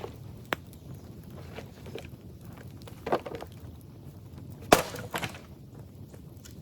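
Dry bamboo cracking and snapping: four or five sharp, irregular cracks, the loudest about three-quarters of the way through.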